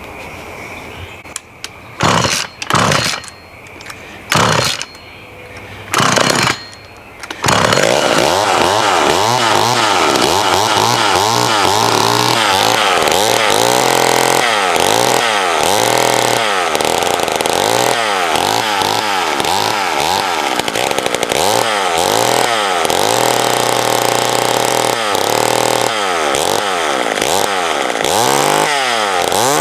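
Two-stroke McCulloch Mini Mac 35 chainsaw being pull-started: several short bursts over the first seven seconds, then it catches and keeps running. From then on its pitch rises and falls over and over as the throttle is worked.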